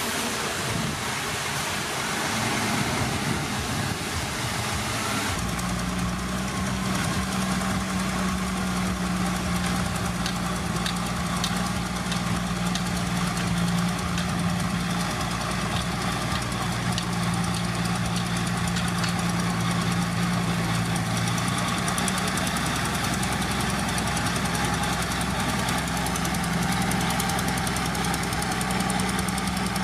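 Heavy diesel engine of earthmoving machinery running under steady load. A steady low engine note sets in abruptly about five seconds in.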